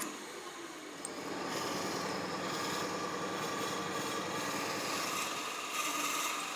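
A small power tool's motor running steadily with a high whine, starting up about a second in.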